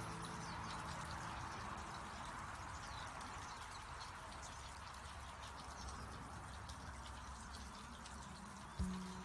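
A steady trickling, water-like hiss with faint, high bird chirps scattered through it. Near the end, low sustained musical tones come back in.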